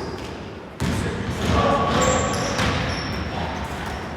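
Basketball game sound in an indoor gym: the ball bouncing and players moving on the court, echoing in the hall, with a sudden loud thud a little under a second in.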